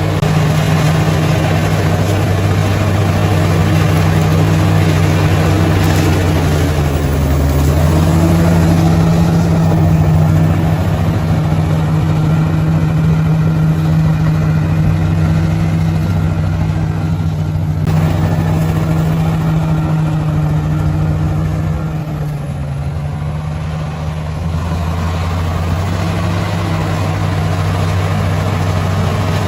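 Bulldozer's diesel engine running steadily. Its pitch rises a little about a quarter of the way in and sags briefly about three quarters through, with a single short knock just past the middle.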